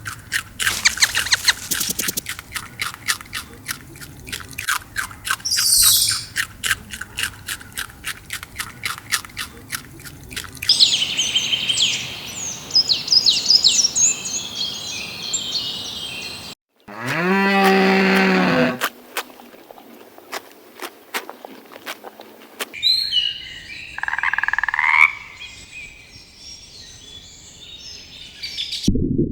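Outdoor animal sounds in a run of short clips: fast clicking chirps for about ten seconds, then small birds chirping. About seventeen seconds in, a loud animal call of about two seconds with its pitch sliding down, followed by more chirping and a shorter call.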